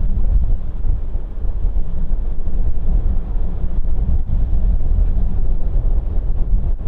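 Loud, steady low rumble of jet airliner engines at an airport, with wind buffeting the microphone.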